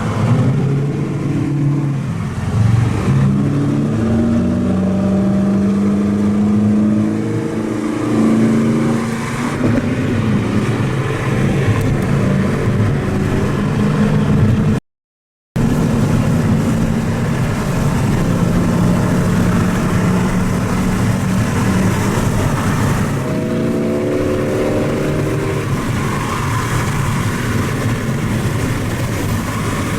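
Saleen S7 Competition's V8 engine revving and pulling hard, its pitch climbing in steps through the first half. The audio cuts out for a moment near the middle. A rougher steady run follows, and the pitch climbs again near the end.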